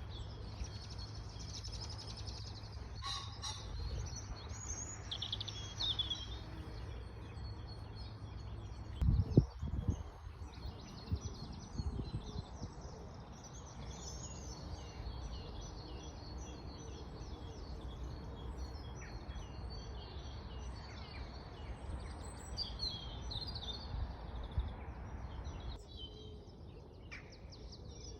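Songbirds singing and chirping, many short trills and calls overlapping, over a steady low rumble. A loud low thump comes about nine seconds in.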